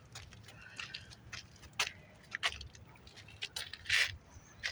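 Footsteps scuffing and clicking on shoreline rocks: a string of irregular short scrapes and knocks, the loudest about four seconds in, over a steady low rumble.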